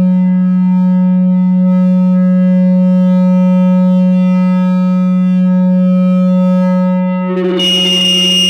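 No-input mixing feedback drone from a two-channel mixer looped through an effect pedal. A steady low tone with many overtones holds still, then a little over seven seconds in breaks into a harsher, noisier texture with a high whistling tone on top.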